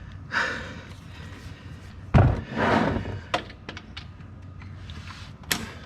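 Wrench on a car's oil drain plug: a sharp thunk about two seconds in as the tight plug breaks loose, then a few light metallic clicks.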